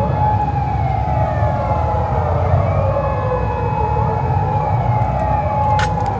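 Sirens wailing, several slow rising and falling sweeps in pitch overlapping above a steady tone, with a low engine rumble underneath.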